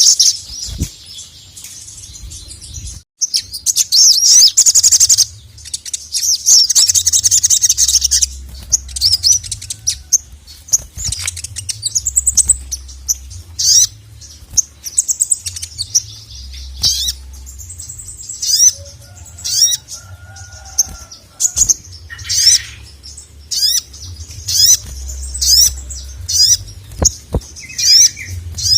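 Male sogon (sogok ontong, little spiderhunter) singing in its full, fast song: high-pitched rapid chirps and trills, repeated in many quick bursts with short pauses between.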